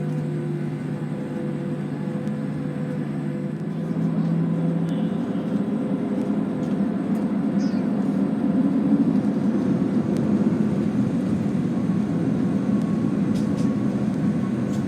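Cabin noise of a taxiing Boeing 737-800, heard from a window seat: the steady hum of its CFM56 jet engines at low thrust and the rumble of the airliner rolling. A low steady hum fades about five seconds in as the rolling rumble grows louder.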